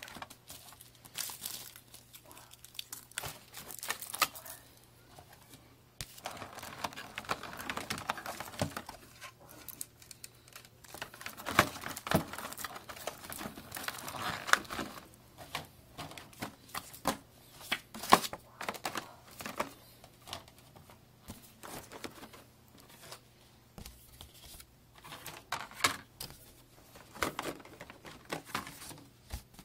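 Packaging being handled by hand: crinkling and rustling of plastic or paper, with many scattered clicks and taps.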